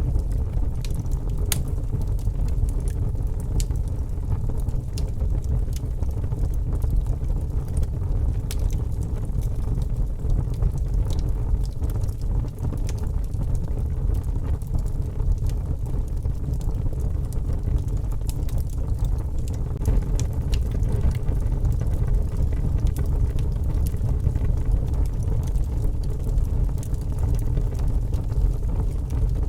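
Wood fire in a fireplace crackling, with irregular sharp pops and snaps scattered throughout over a steady low rumble.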